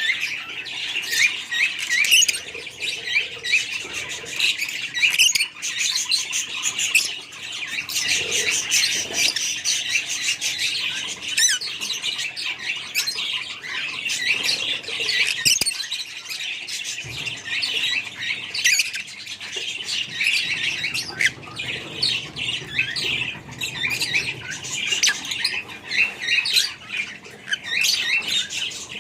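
Many budgerigars chirping and chattering at once, a dense, continuous twittering with sharper squawks throughout.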